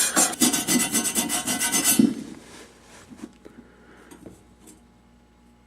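Abrasive mesh scrubbed rapidly back and forth on a copper pipe, cleaning it to bright metal for soldering. The strokes are quick and even, several a second, and stop about two seconds in, leaving only faint light clinks.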